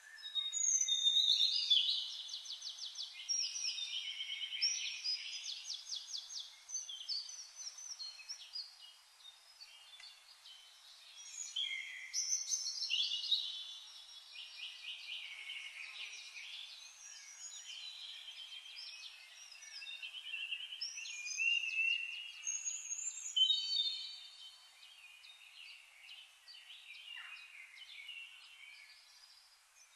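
Birds singing and chirping, several songs overlapping with fast trills, repeated high notes and short rising and falling whistles. The sound is thin, with no low end, and comes in waves that swell and fade.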